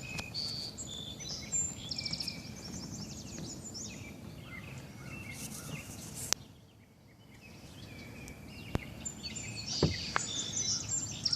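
Birds calling outdoors: many short high chirps and quick trills from several birds, with a couple of sharp knocks in between.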